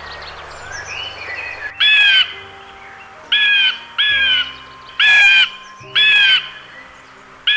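A bird calling loudly and repeatedly, short pitched calls about once a second, starting about two seconds in, over soft background music.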